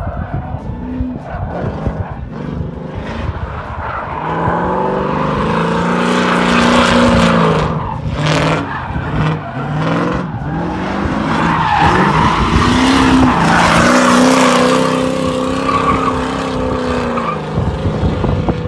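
LS1 V8 drift car engine revving up and down hard through two long slides, with tyres squealing against the pavement. Low wind rumble on the microphone.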